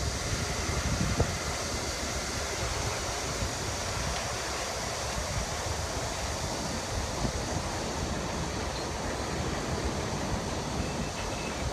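Steady rushing rumble of a long freight train of boxcars rolling across an elevated railway bridge, with wind on the microphone.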